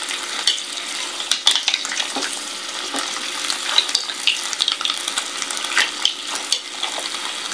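Shrimp and green mussels sizzling in butter and soy sauce in a pan while being stirred with a spatula, with frequent short clicks and clacks as the shells are turned.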